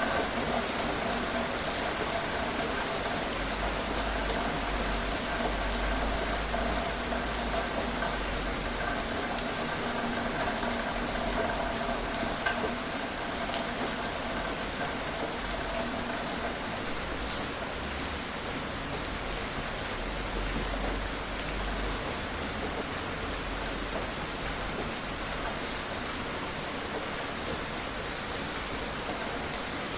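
Steady gentle rain falling, an even hiss with fine patters of individual drops. A faint steady hum sits under the rain and fades out about halfway through.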